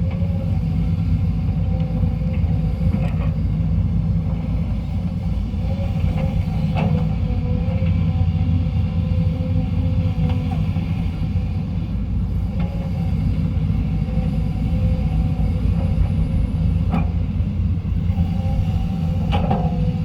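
SANY SY200C excavator's Mitsubishi 4M50 diesel engine running under load with a steady low rumble, with a few sharp metallic knocks from the working machine scattered through it.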